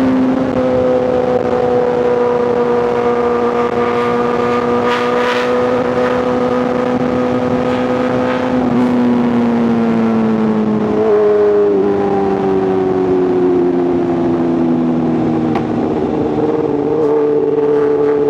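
Inline-four superbike engine and exhaust running at steady highway speed. The engine note holds, then sinks lower twice as the throttle eases off.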